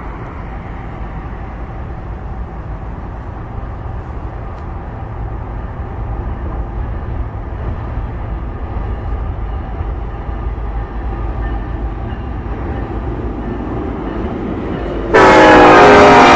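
Freight train approaching behind a BNSF diesel locomotive: a low engine rumble that grows slowly louder, then about fifteen seconds in a very loud, several-note locomotive horn blast as the locomotive draws alongside.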